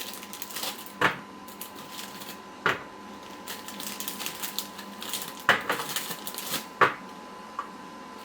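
Frozen mozzarella sticks being set down one by one on an oven tray: four sharp hard clacks spread over several seconds, with lighter ticking and rattling between them.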